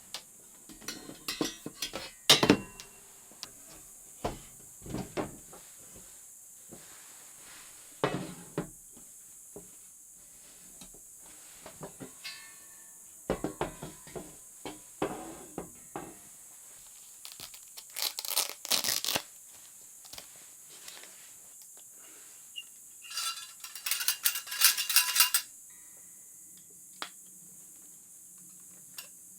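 Intermittent clicks, knocks and clinks of small hard objects being handled, with two longer clattering bursts around the middle and about two-thirds through, over a steady high hiss.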